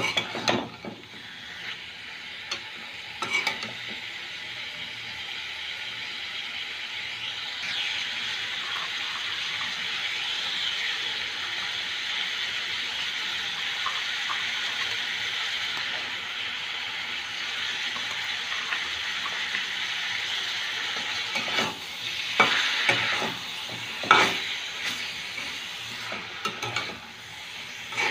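Pigeon and coconut pieces frying in an oily spice masala in a wok, a steady sizzling hiss, while a spatula stirs them, scraping and knocking against the pan. The scraping comes in short clusters near the start, about 3 seconds in, for a few seconds about three-quarters of the way through, and again near the end.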